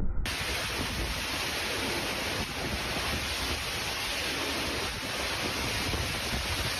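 Storm noise: a steady, even rushing hiss with a low rumble underneath, starting after a sudden cut just at the start.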